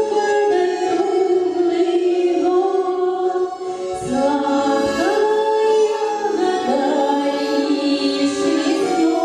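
A song being sung, with long held notes that change every second or so.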